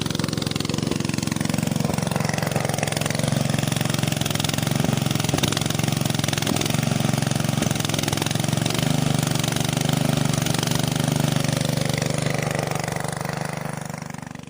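A small motor running steadily with a fast, even buzz, fading away near the end.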